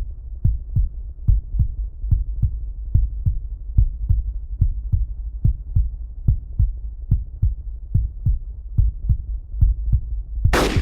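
Heartbeat-style sound effect: deep, evenly paced thuds in lub-dub pairs over a low rumble, broken just before the end by one loud crash whose bright hiss trails off slowly.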